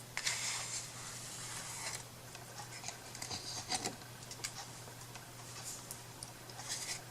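Faint handling noises from crafting at a table: a soft rustle for about two seconds, then scattered light taps and clicks, over a steady low hum.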